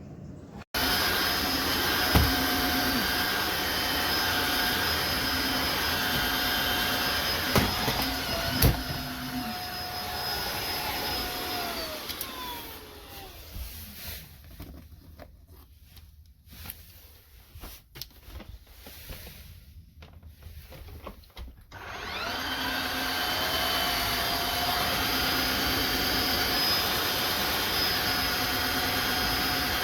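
Tineco Floor ONE S5 cordless wet-dry vacuum mop running with a steady motor whine and a couple of knocks. About twelve seconds in it winds down with falling pitch; it is quieter with small knocks for several seconds, then spins back up with rising pitch near the end and runs steadily again.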